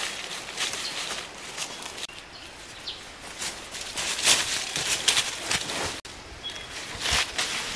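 Rustling and crackling of leaves and vegetation, as of someone moving through undergrowth, in irregular bursts, with a faint bird chirp or two.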